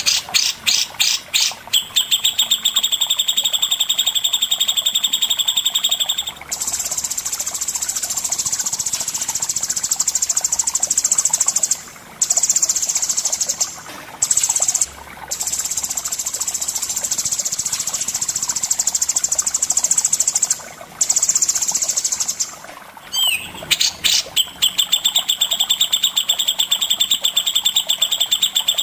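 Songbird song: long, fast rattling trills of evenly repeated high notes, broken by several short pauses, with a few quick rising and falling notes near the end.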